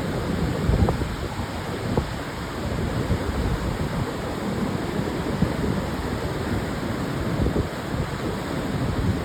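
Pacific surf breaking on a sandy beach: a steady rush of waves, with wind buffeting the microphone in low rumbles.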